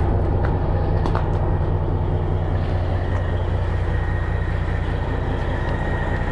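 Semi truck's diesel engine idling steadily, with a couple of light clicks in the first second or so.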